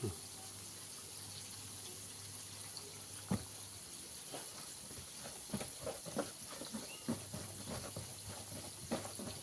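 Hands working chicken pieces through flour and a wet dip, making irregular soft rustles, taps and small wet sounds. These come sparsely at first and more often in the second half, over a faint steady hum.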